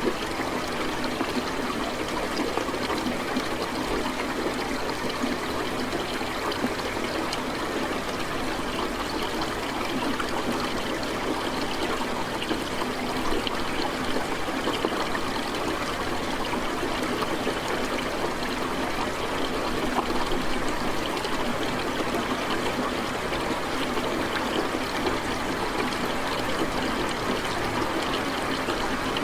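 Steady rain: an even hiss dotted with many small drop impacts, with no rise or fall in strength.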